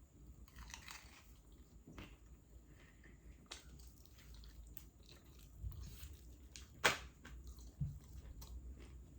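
A person chewing and biting into KFC fried chicken, with wet mouth sounds and scattered small clicks, the sharpest one about seven seconds in.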